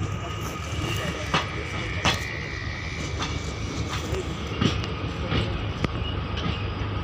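Express train coach running along the track: a steady low rumble with sharp, irregularly spaced clacks of the wheels on the rails.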